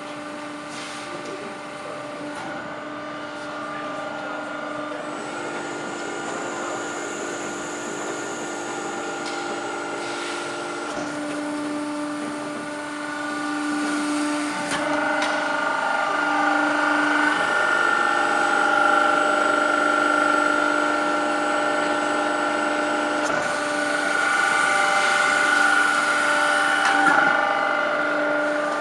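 Production-line machinery running steadily, a hum of several held tones that switch and shift a little. It grows louder about halfway through.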